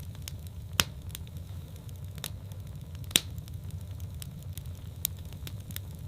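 Wood fire in a fireplace crackling: scattered sharp pops and snaps over a steady low rumble, the two loudest pops about a second in and about three seconds in.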